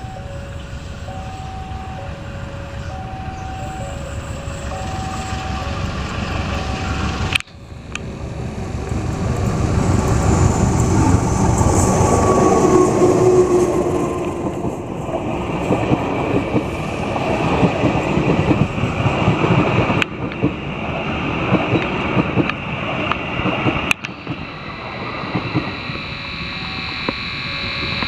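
A level-crossing warning alarm sounds in two alternating tones. Then a Putri Deli diesel-hauled passenger train passes close by, its wheels rumbling over the rails and building to a loud peak before easing off.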